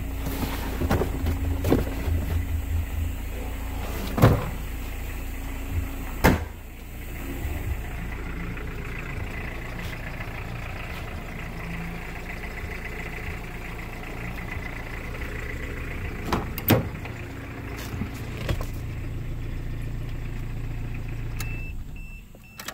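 A 1986 Toyota Camry's 2.0 turbo-diesel four-cylinder engine idling steadily, with a few sharp clicks along the way. The engine sound cuts off near the end.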